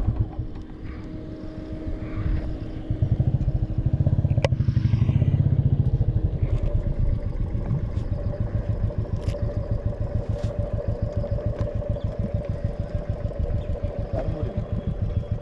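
Motorcycle with an aftermarket barrel exhaust running with a fast, even exhaust beat; it grows louder about three seconds in, then settles to a steady run.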